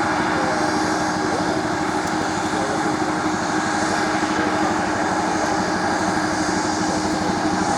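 UH-1 Huey helicopter's Lycoming T53 turboshaft engine and rotor running steadily, a continuous steady drone with held tones.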